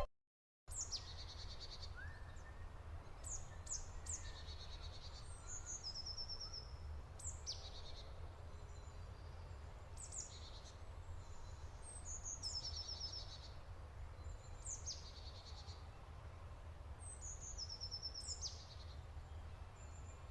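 A songbird singing a short repeated phrase, a quick down-slurred note followed by a rapid high trill, about every two to three seconds, over a faint low hum.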